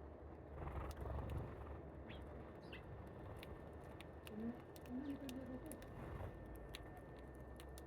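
Birds calling: a low, wavering call about halfway through and a couple of short high chirps earlier, over scattered faint clicks and a low steady hum.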